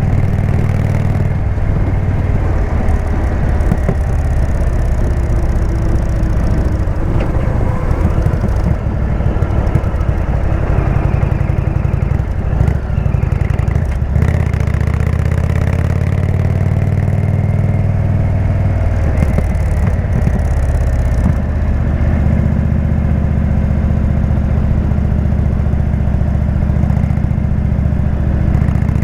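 Indian V-twin motorcycle engine running through a Jekill & Hyde exhaust while riding, its note dipping and rising a little with the throttle partway through.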